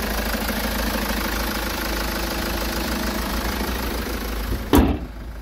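Kia Sorento engine idling steadily with the bonnet open. About five seconds in, the bonnet is slammed shut with one loud thump, and the idle is muffled after it.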